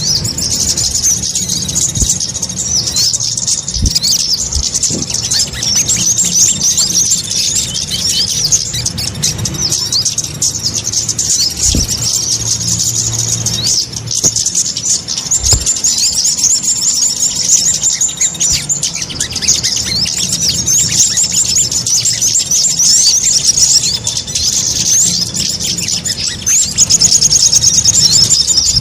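Little spiderhunters (sogok ontong) calling noisily and without pause: a dense stream of rapid, high, sharp chirps from several birds, the busy chorus used as a trapping lure call. A few faint dull knocks sound under it.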